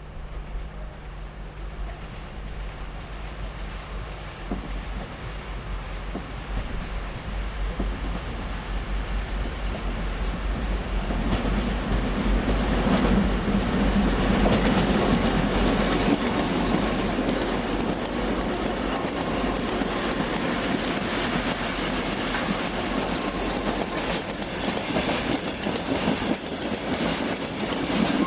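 A train running on the rails, with the wheels clacking over rail joints. The rolling noise builds through the first half and stays loud, with a run of quick clicks near the end.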